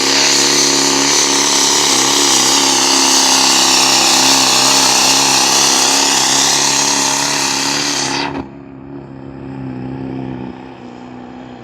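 Pulling truck's engine held at high revs under full throttle, then cut back sharply a little after eight seconds in and left running at a much lower idle.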